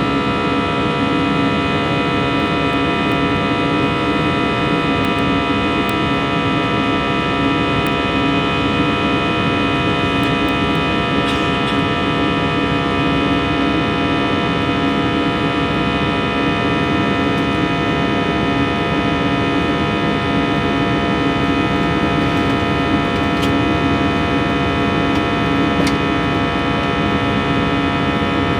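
Airbus A320's jet engines running steadily at takeoff power, heard from inside the passenger cabin as a loud, even drone with many steady whining tones over a rumble.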